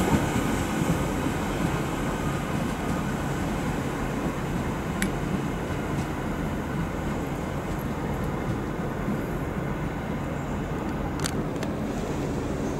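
A Merseyrail Class 777 electric train running away from the platform. Its wheel clatter dies away over the first couple of seconds, leaving a steady low rumble with a few sharp clicks.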